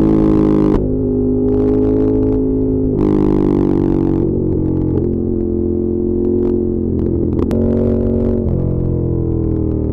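Ducati Monster 1200S L-twin engine running under way, its note holding steady and then stepping to a new pitch several times as the throttle and gears change. There are two noisier stretches with an added hiss, near the start and about three seconds in.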